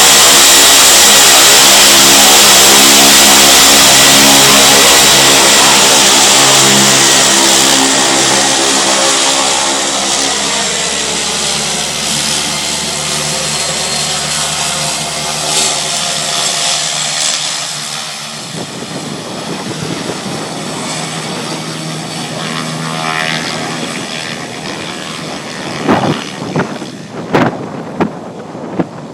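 Air Tractor 502's turboprop engine and propeller running loud and close, with a high whine and hiss, then fading steadily as the aircraft moves away. A few sharp thumps near the end.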